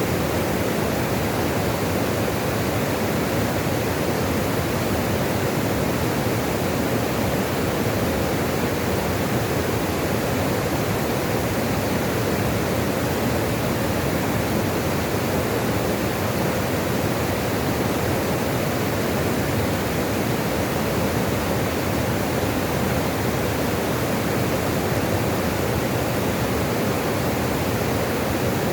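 Steady rushing of flowing water, an even unbroken wash of noise with no changes.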